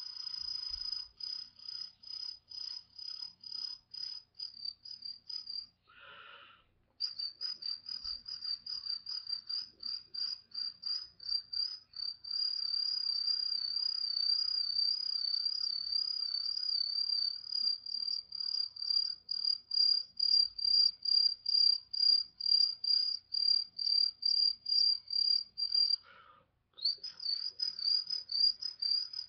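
A person imitating a cricket's chirp with the mouth: a high, shrill, whistle-like tone in quick pulses a few times a second, at times running together into a continuous wavering trill. It breaks off briefly twice, about six seconds in and near the end, for a breath.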